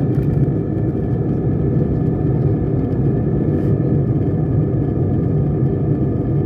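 Steady low drone of an airliner cabin in flight: engine and airflow noise, with a few faint steady tones above it.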